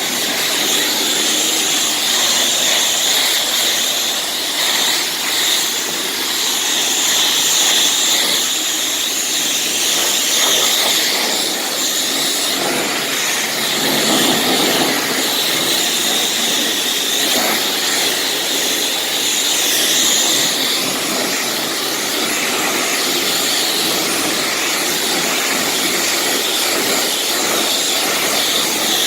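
Self-serve car wash high-pressure wand spraying a steady jet of rinse water, a loud hiss with no breaks.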